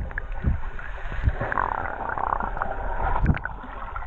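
Water sloshing and gurgling around a swimmer, with a few low thumps.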